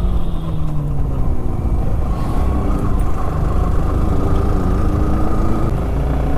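Benelli 600i inline-four motorcycle engine and exhaust under way, its note dropping over the first second or so as the throttle eases off, then running on and picking up again, with a heavy low rumble throughout.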